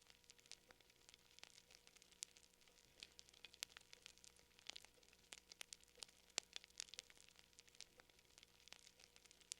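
Fire crackling softly: irregular small pops and snaps, several a second, over a faint hiss.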